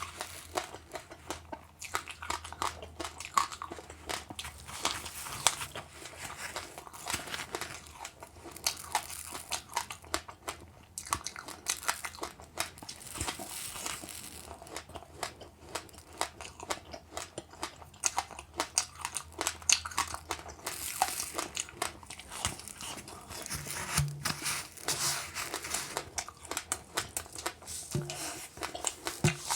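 Close-up chewing and crunching of passionfruit pulp with its seeds and sesame seeds: a dense, irregular run of crisp crackles and bites.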